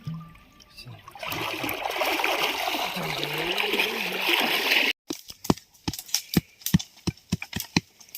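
Water pouring and splashing for a few seconds, then, after an abrupt cut, a quick run of sharp knocks, about four or five a second.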